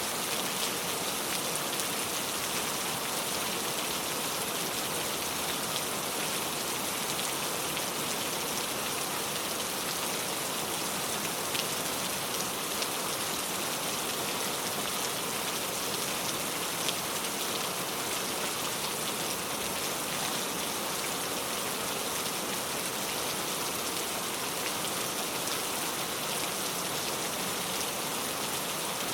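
Steady rain falling on a car, a constant patter of drops on the body and glass with an occasional sharper drop tick.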